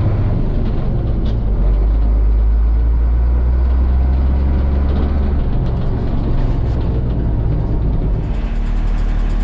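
International S1900 dump truck's DT466 inline-six diesel engine running, a loud low drone whose pitch drops about half a second in and shifts again about five and a half and eight seconds in.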